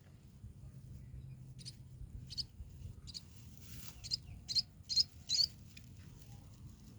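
Baby birds giving a run of short, high-pitched cheeps, about seven in a row, the last few the loudest.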